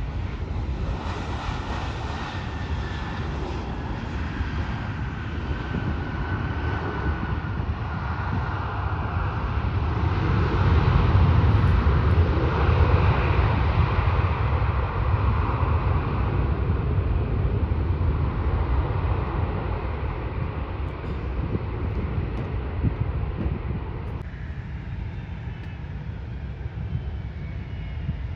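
Jet airliner's engines passing: a rumble that grows louder to a peak about a third of the way in, then slowly fades, with a faint whine falling in pitch as it goes.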